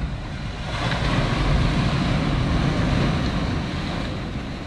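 Ocean surf and wind on the microphone: a rushing noise that swells about a second in and eases off toward the end.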